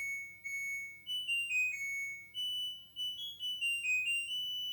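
Dishwasher's electronic end-of-cycle tune: a short melody of single beeped notes stepping up and down in pitch, signalling that the wash has finished.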